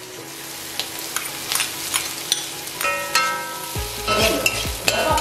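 Chopped garlic, ginger and green chillies sizzling in hot oil in a kadai, with a steel spoon clicking and scraping against the pan as they are stirred. Near the end a beat of low, evenly spaced thumps comes in over it.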